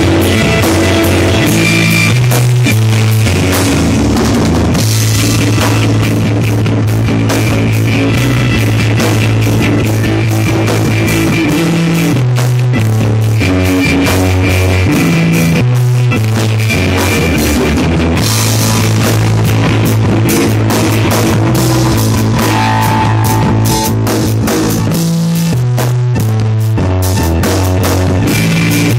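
Loud rock music with a steady drum-kit beat, distorted guitar and a bass line that changes notes every second or so.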